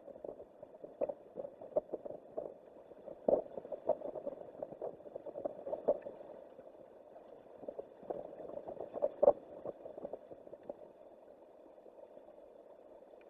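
Strong wind buffeting an exposed outdoor microphone: an uneven rushing noise with irregular crackles and knocks, the loudest about three seconds in and again about nine seconds in.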